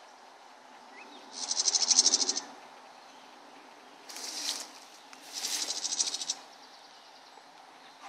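A songbird giving three rapid, buzzy, high-pitched trills, the first the loudest and the middle one short.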